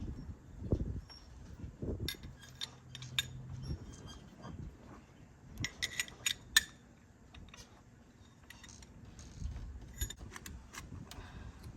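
Light metallic clinks and taps of hand tools and small metal parts, coming in short clusters with a few duller knocks between them, as new diesel injectors are fitted into the engine.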